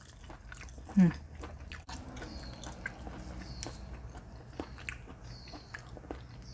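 A person chewing a mouthful of tender, chewy chicken, with wet mouth noises and faint clicks. There is one brief hum-like voice sound about a second in.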